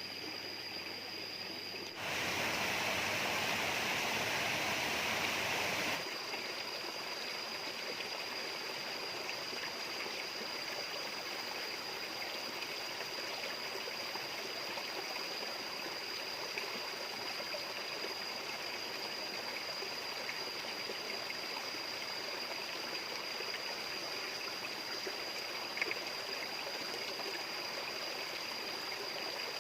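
Stream running steadily, with a thin, steady high-pitched whine over the water. From about two to six seconds in, the water is louder and the whine drops out.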